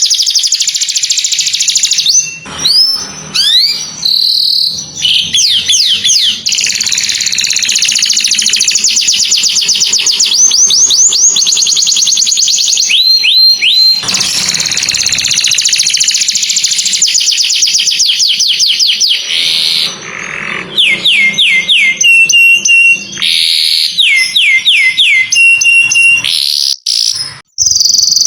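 Domestic canary singing a long, loud song. It moves between fast rolling trills and series of quick downward-sliding whistled notes, with a few short breaks.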